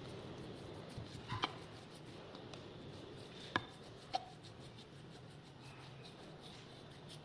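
A few light knocks and clicks, two close together about a second in and two more a little past the middle, over faint steady room tone.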